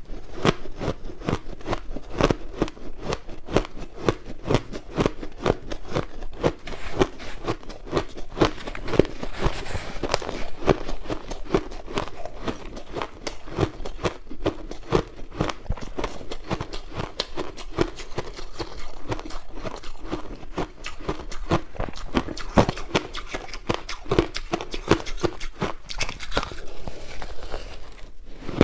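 Crushed ice being bitten and chewed: a dense, unbroken run of crisp crunches, several a second.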